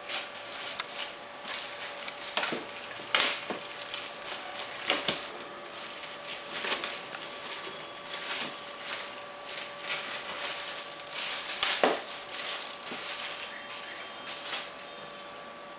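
Hands handling a foam model-aircraft wing and its packaging: irregular rustling and crinkling with light knocks, over a faint steady hum.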